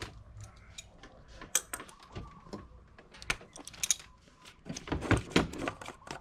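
Scattered clicks and clatter of the engine oil filler cap being twisted off and handled in the engine bay.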